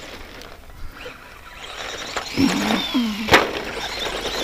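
RC stadium truck with a 15-turn brushed electric motor running over a rough dirt track. The motor's pitch rises and falls with the throttle around the middle, and there is one sharp knock a little over three seconds in.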